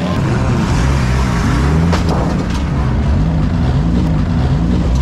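Gutted Chrysler PT Cruiser demolition derby car's engine revving up and down over and over as it manoeuvres, with a couple of sharp knocks about two seconds in.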